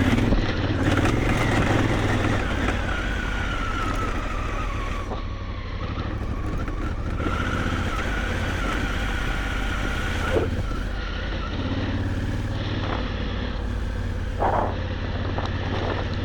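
Big adventure motorcycle's engine running steadily while riding, with a high whine that slowly drops in pitch. Two brief knocks sound a few seconds apart late on.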